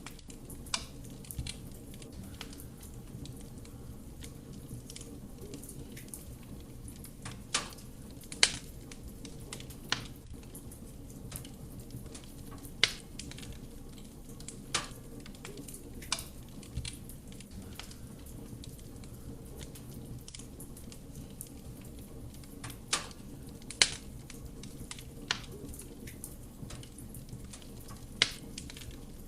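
Wood fire burning in a fireplace: a steady low rumble of flame with irregular sharp crackles and pops from the burning wood, about a dozen, a few of them markedly louder.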